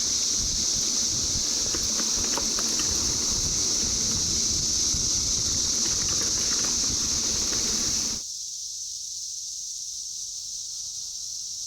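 Chorus of 17-year periodical cicadas, a steady high drone, over a loud rumble of wind and riding noise. About eight seconds in the rumble cuts off abruptly, leaving the cicada chorus alone.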